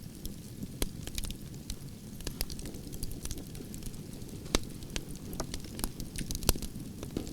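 Wood fire of burning branches crackling: a steady low rumble of flames with irregular sharp pops and snaps, two louder pops about four and a half and six and a half seconds in.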